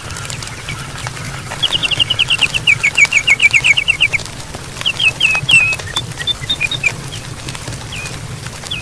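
Campfire crackling with sharp pops over a low steady rush. A bird sings through it: a rapid run of about twenty short falling chirps lasting a couple of seconds, then a few scattered chirps.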